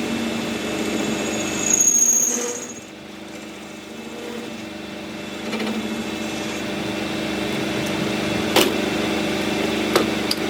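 A workshop machine running with a steady hum. It swells louder about two seconds in, drops back a second later, and two sharp clicks or knocks come near the end.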